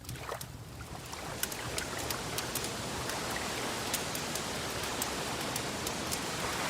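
Wood fire crackling: scattered sharp pops and snaps over a steady rushing hiss that swells a little over the first couple of seconds.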